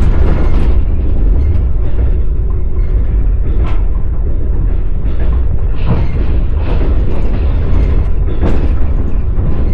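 Wheels of a passenger train carriage running on the rails, heard from inside the carriage: a loud, steady low rumble with clacks every second or two as the wheels pass over rail joints.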